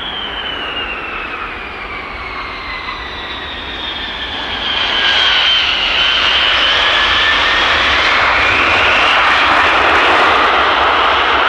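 A Boeing 707's Pratt & Whitney JT3D turbofan engines running loud. A whine falls in pitch over the first few seconds. Then, about five seconds in, the sound grows louder into a broad roar with a whine rising again.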